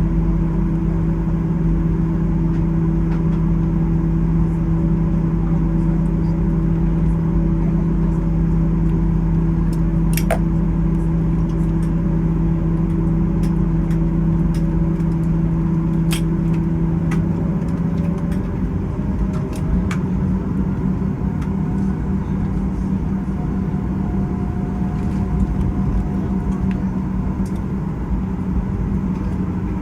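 Boeing 737-800 cabin noise: a steady low hum with a few sharp clicks. The deepest steady tones of the hum drop away about 18 seconds in.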